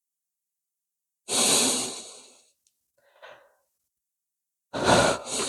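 A person's audible breath close to the microphone: a long breath out about a second in, fading over about a second, and a shorter two-part breath near the end.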